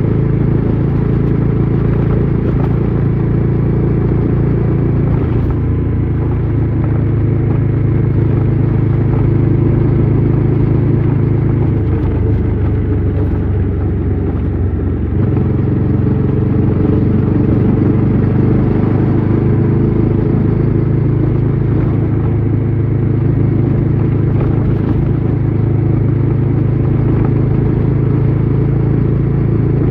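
Bajaj Dominar 400's single-cylinder engine and exhaust running steadily under way. About halfway through, the engine note drops lower for a few seconds, as when the rider eases off, then picks back up.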